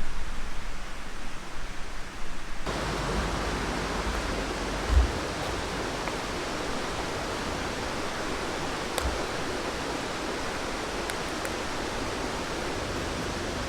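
River water rushing in a steady, even wash that sets in abruptly about three seconds in, after a stretch of low rumble. A single low thump comes about two seconds after the rushing begins.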